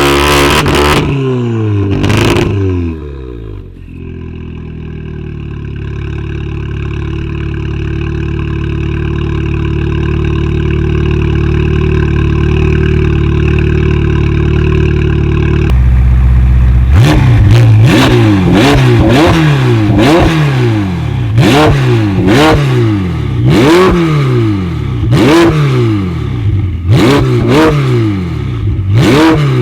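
Tuned car engine coming down off high revs, then idling steadily for about twelve seconds. It is then revved rapidly over and over, roughly once a second, with sharp cracks at the revs.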